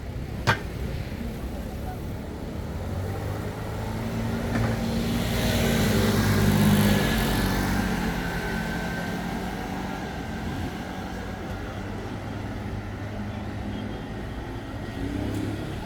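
A motor vehicle passes by: engine and tyre noise grows to a peak about six or seven seconds in, then fades, over steady street noise. A single sharp click about half a second in.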